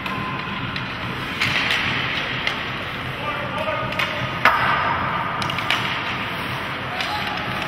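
Ice hockey rink game sound: steady arena and crowd noise with scattered sharp clacks of sticks and puck, the loudest about four and a half seconds in.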